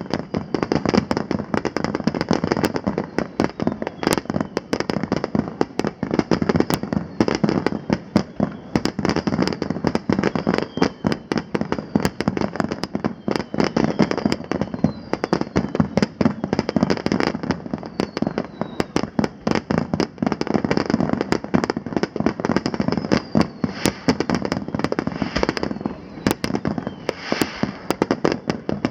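Fireworks display: a continuous rapid barrage of aerial shell bursts and crackling, many bangs a second overlapping without a break.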